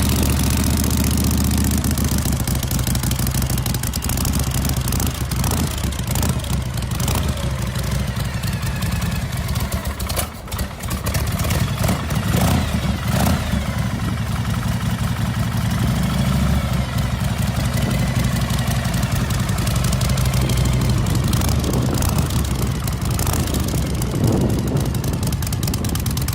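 Harley-Davidson V-twin engine of a Captain America chopper running with a steady low rumble, its level dipping briefly about ten seconds in.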